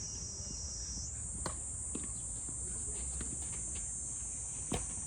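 Steady high-pitched insect chorus that steps up slightly in pitch about a second in, with a few short sharp knocks, the loudest near the end.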